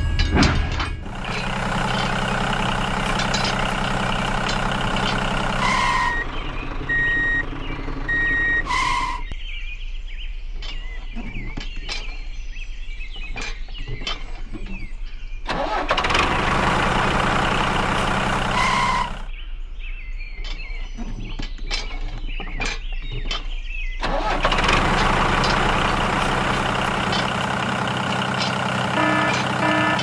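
Tractor engine running steadily in three stretches, with rattling and clicking in between and a few short beeps about a quarter of the way in and near the end.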